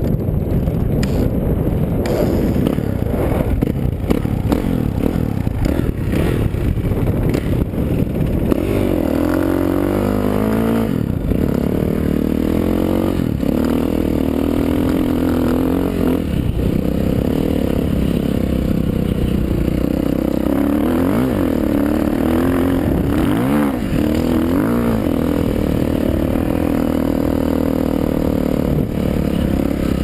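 Suzuki RM-Z450 motocross bike's single-cylinder four-stroke engine running hard under riding, the revs rising and falling repeatedly as the throttle is worked.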